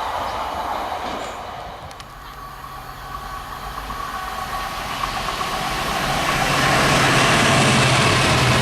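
Railway trains on a main line: the noise of one train dies away over the first two seconds, then another approaches. Its steady engine hum and rushing wheel noise grow louder until, from about seven seconds in, it is passing at full volume.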